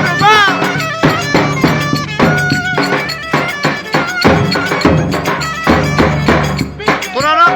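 Live traditional Turkish wedding dance music: a reedy wind instrument plays a sliding, ornamented melody over quick, dense drum strokes.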